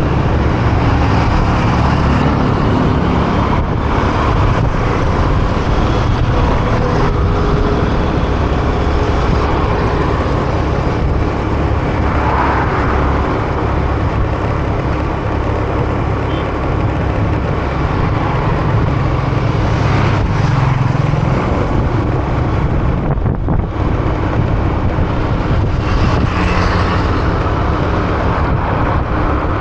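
Road noise from riding a motorcycle in city traffic: the bike's engine and wind on the microphone, with other vehicles passing, steady and loud throughout.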